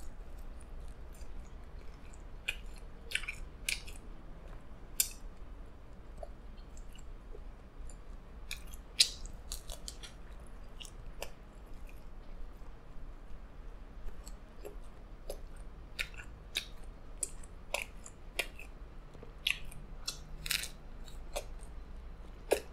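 A person chewing a mouthful of pepperoni pizza close to the microphone: soft mouth sounds with many irregular sharp clicks and crunches from the thick, very dry crust.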